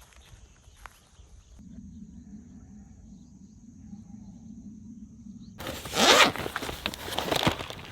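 A zipper pulled in quick rasping strokes, starting suddenly about five and a half seconds in, with a low steady hum before it.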